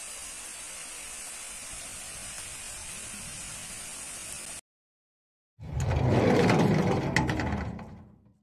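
A steady hiss for about four and a half seconds, then a second of dead silence. Then a rumbling mechanical sound effect of a vault door unlocking, with a few sharp clicks, which fades out near the end.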